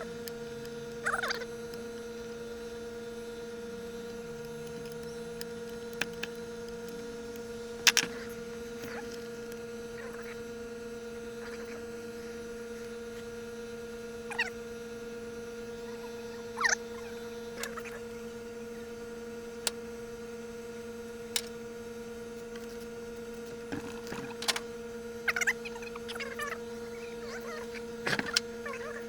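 Steady electrical hum, with scattered short clinks and knocks of metal tools or parts being handled. The sharpest knock comes about eight seconds in.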